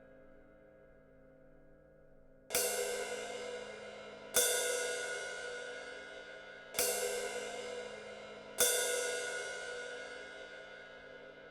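18-inch Sabian AAX Metal Crash cymbal struck four times, about two seconds apart, each crash ringing and slowly fading until the next hit. The first couple of seconds hold only the faint tail of an earlier crash.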